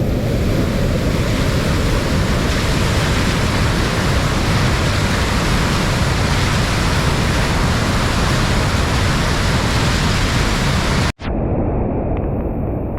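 Loud, steady rush of fast-flowing, storm-swollen floodwater. There is a split-second break about eleven seconds in, after which it is a little less hissy.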